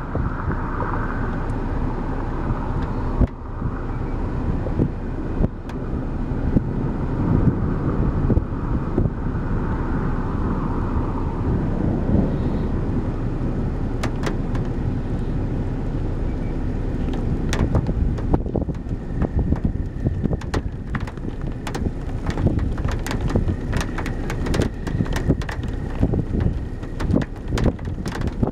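Steady low rumble of wind around a parked vehicle. From about halfway on come scattered sharp taps that grow more frequent toward the end: the first raindrops of an approaching thunderstorm core hitting the vehicle.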